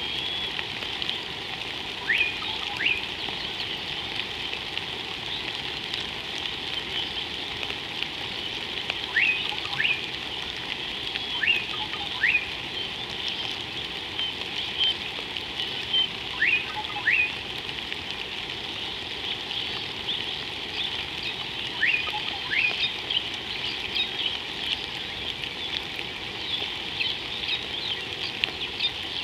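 A bird calling with a pair of quick rising whistles, repeated every few seconds over a steady hiss with faint crackling.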